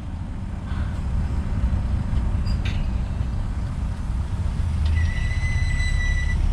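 Heavy diesel earthmoving machinery running steadily with a low engine rumble, with a single metallic clank about two and a half seconds in. Near the end a high, steady squeal sounds for about a second and a half.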